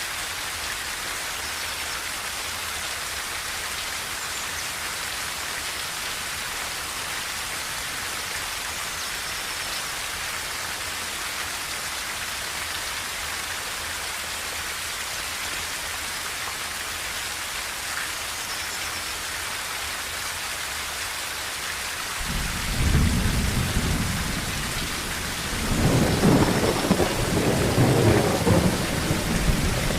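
Steady rain on a tin roof, an even hiss. About two-thirds of the way through, a low rumble of thunder comes in, growing louder a few seconds later and rolling on to the end.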